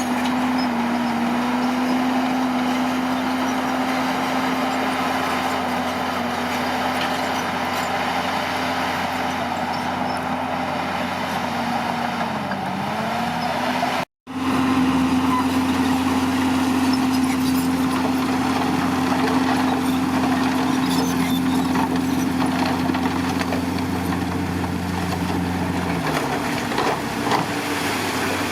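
Bulldozer's diesel engine running steadily at working speed. Its pitch sags briefly about twelve seconds in, then recovers. The sound breaks off for a split second about fourteen seconds in.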